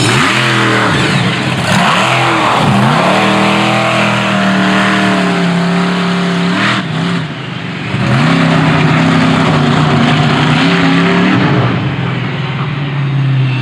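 Monster truck engine revving hard: quick up-and-down blips at first, then held at high revs for several seconds, easing off briefly about seven seconds in and again near the end.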